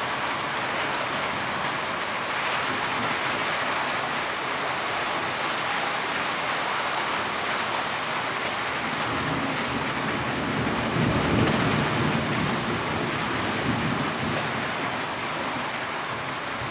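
Heavy rain falling steadily in an even hiss, with a low rumble of thunder swelling in the second half.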